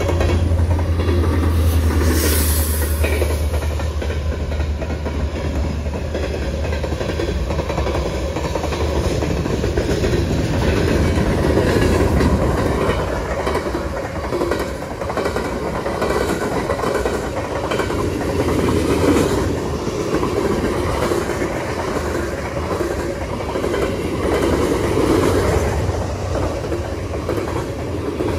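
Freight train rolling past, its cars' wheels clattering steadily on the rails, with a deep low rumble in the first several seconds that eases off.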